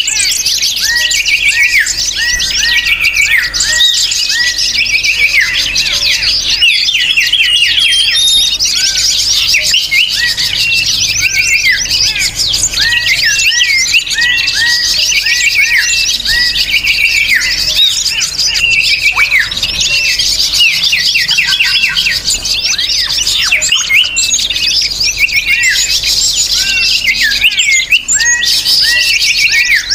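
A dense, noisy chorus of many small songbirds chirping and twittering over one another without a pause: a bird-lure call recording.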